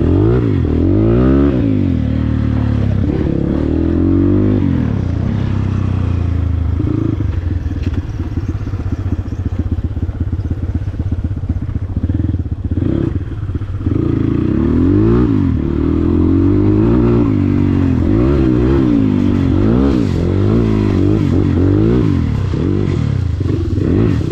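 Dirt bike engine revving up and down over and over as the bike is worked over a rocky obstacle, with a steadier, lower-revving stretch in the middle.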